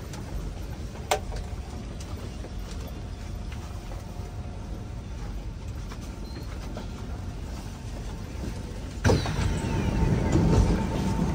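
Kawasaki C151 MRT train at the platform, giving a steady low rumble and hum with one sharp click about a second in. Near the end a sudden, much louder rumble starts, with a steady whine.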